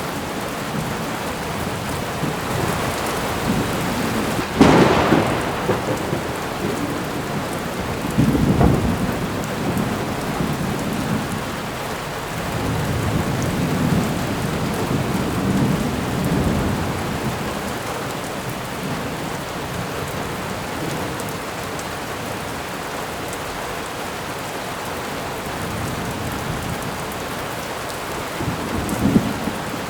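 Thunderstorm: steady rain with a sharp thunderclap about four and a half seconds in, a second clap around eight and a half seconds, then low rolling rumbles.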